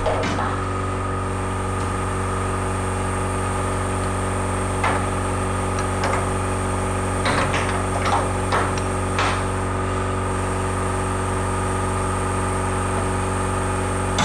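A motor running steadily at one pitch, with sharp metal knocks about five seconds in and several more between about seven and nine seconds in.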